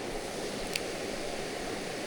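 Steady rushing of a mountain stream, with one short sharp click about three quarters of a second in.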